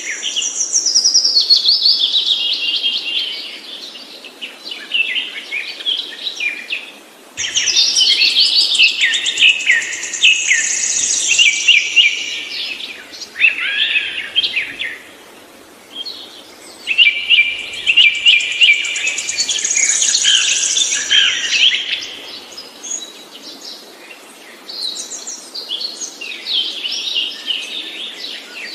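A songbird singing long, rapid, warbling phrases full of trills and quick chirps, each phrase lasting several seconds, with short breaks between them, about four bouts in all.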